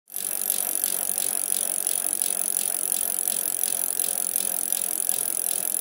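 Bicycle rattling and clicking in an even rhythm of about three clicks a second, over a steady high hiss.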